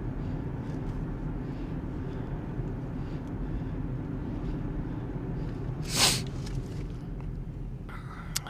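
Steady low rumble of a car's engine and road noise while driving. A short, sharp breathy whoosh comes about six seconds in, and a small click near the end.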